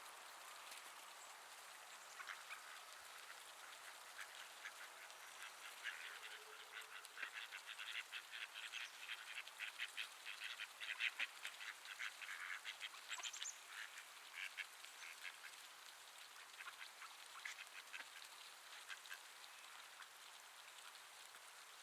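A bird's rapid, raspy chattering calls, faint, building up a couple of seconds in, densest through the middle and thinning out near the end.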